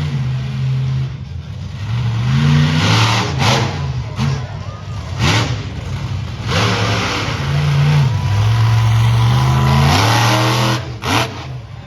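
Monster truck's engine revving hard several times, its pitch climbing and falling between throttle blasts, then held high for a couple of seconds before dropping off near the end. A few short, sharp bursts of noise come over the engine.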